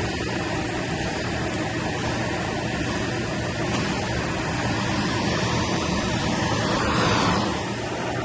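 Vacuum cleaner motor running steadily with a whooshing airflow, swelling briefly about seven seconds in.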